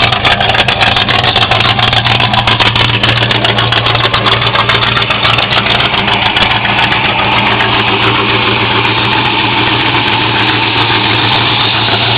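1967 Chevrolet C10 pickup's engine idling through Cherry Bomb glasspack mufflers, a loud, steady exhaust note. The idle is uneven at first and settles to a smoother, steadier run about halfway through.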